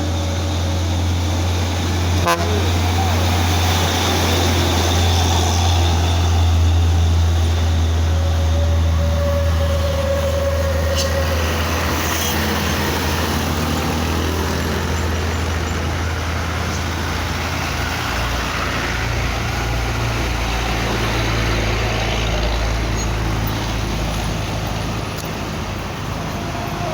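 Heavy truck's diesel engine pulling up a steep hill under load: a loud, steady low drone that changes pitch about two-thirds of the way through, as with a gear change.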